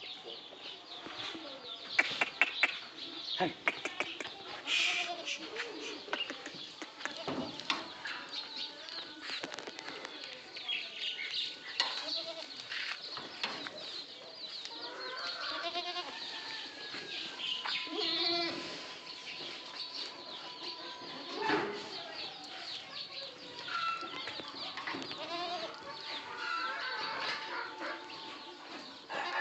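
Boer goats bleating in a pen, with scattered knocks and rustling.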